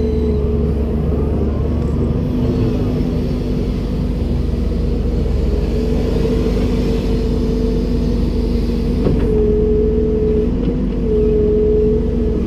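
Komatsu PC290-10 excavator's diesel engine and hydraulics running steadily under work, a low rumble with a steady whine over it, and a single sharp knock about nine seconds in.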